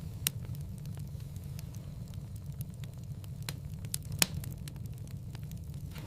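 Wood fire crackling in a fireplace: a steady low rumble of the flames with scattered sharp pops, the loudest about four seconds in.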